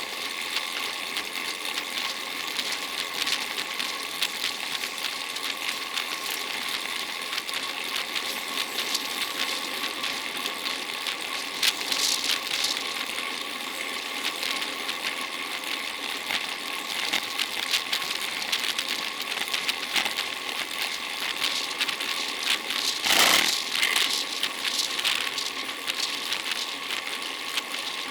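Road bicycle riding along: steady tyre-on-road hiss and drivetrain rattle, with a faint steady whine and a brief louder rush about twelve seconds in and again near the end.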